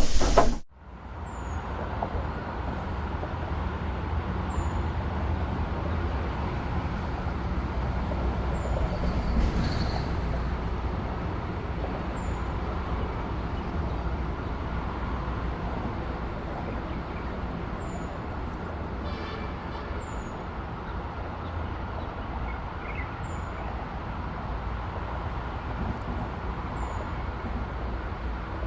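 Steady distant traffic rumble, with a faint short high chirp repeating every few seconds.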